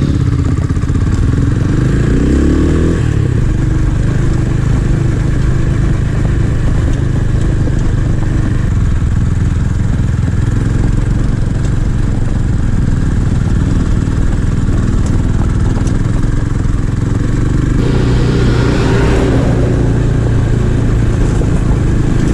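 Small 250 cc scrambler motorcycle engine riding on a gravel road, revving up through the gears in the first few seconds, then running steadily at cruising speed. Near the end it revs up again.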